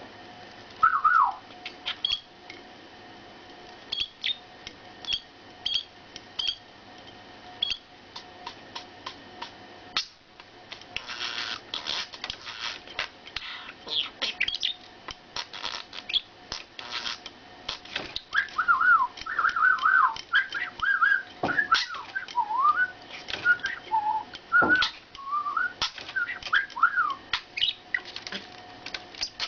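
A pet bird whistling and chirping: a short whistled glide about a second in, scattered sharp clicks and chirps, then from about 18 s a long run of warbling whistles that bend up and down.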